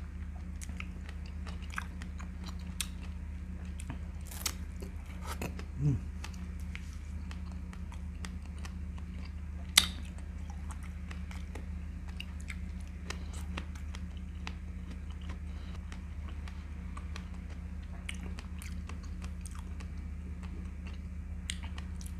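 A person chewing and biting fresh strawberries close to the microphone, with many small wet mouth clicks and one sharper click about ten seconds in. A steady low hum runs underneath.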